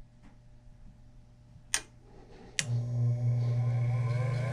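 A click, then the furnace's draft inducer motor switching on about two and a half seconds in and spinning up, a steady low hum with a rising whine above it. It runs clean now that the clogged condensate drain that caused the pressure switch error has been cleared: much better.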